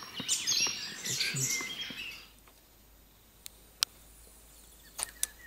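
Small birds chirping and singing in quick high calls, which stop abruptly about two seconds in. After that there are a few sharp clicks, one of them loud, over a faint background.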